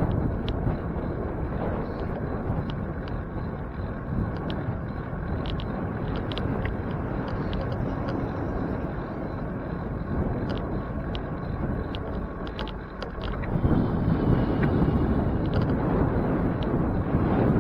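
Wind rumble and traffic noise heard while riding a bicycle along a street, growing louder about three-quarters of the way through, with scattered small clicks.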